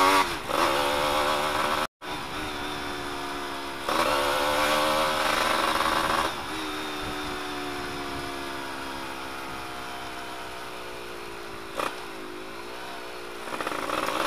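Yamaha F1ZR's 110 cc two-stroke single running open, with its exhaust silencer insert removed. It revs up and drops back at gear changes right at the start and again about six seconds in, then runs with slowly falling revs before picking up again near the end. There is a brief gap in the sound about two seconds in.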